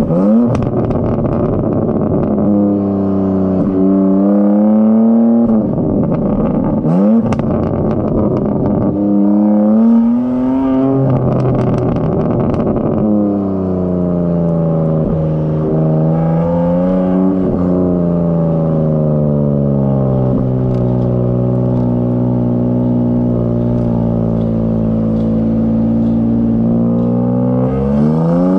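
BMW M4 Competition's twin-turbo 3.0-litre inline-six, with high-flow cats and downpipes, revving hard through several quick upshifts, the pitch climbing and dropping sharply, with short crackling clicks. About halfway through it winds down slowly to a steady cruise, then revs up again near the end.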